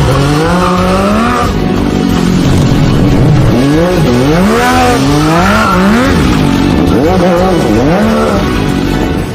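A vehicle engine revving, its pitch climbing and dropping back several times.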